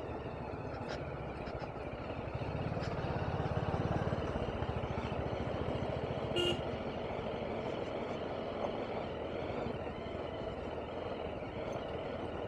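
BMW G310RR's single-cylinder engine running under the rider, growing louder for a couple of seconds about two seconds in as it pulls harder, then easing back. A brief horn toot about six and a half seconds in.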